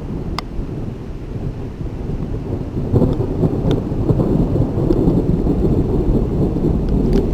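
Thunder rumbling low and continuous, swelling louder about three seconds in, over steady rain, with a few sharp ticks scattered through it.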